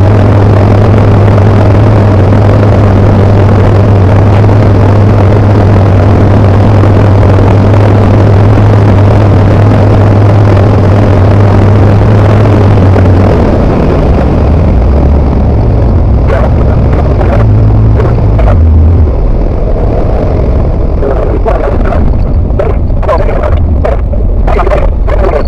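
Tecnam P92 ultralight's engine and propeller heard from the cockpit, a loud steady drone. About halfway through it changes and becomes uneven, with short sharp clicks through the second half.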